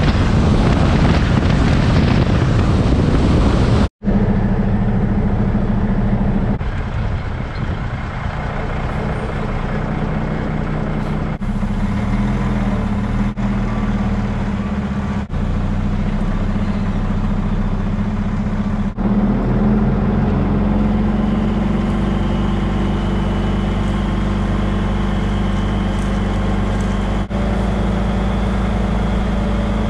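Loaded dump truck's diesel engine running while driving on the road, its note stepping a few times with brief dips in the sound.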